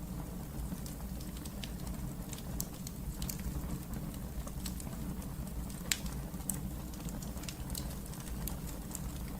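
Wood fire burning in a fireplace, a steady low rumble with irregular sharp crackles and pops, one louder pop about six seconds in.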